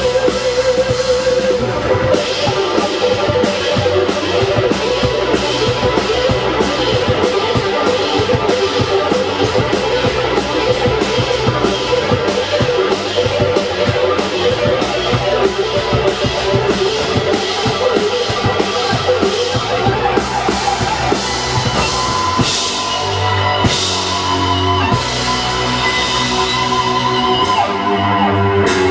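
Rock band playing electric guitar and drum kit, with a fast, steady drum beat and cymbals. The beat thins out about two-thirds of the way through as the song changes section.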